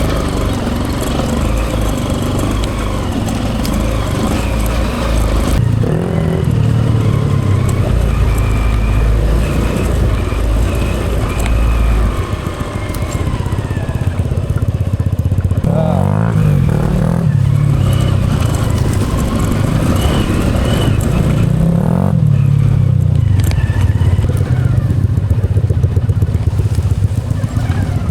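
Hero Impulse trail motorcycle's single-cylinder engine working up a hill climb, its revs rising and falling as the throttle is opened and eased off.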